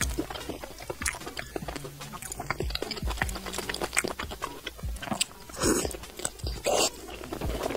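Close-miked wet chewing and biting of a saucy piece of stuffed pork large intestine, with many small mouth clicks and smacks and two louder wet sounds near the end.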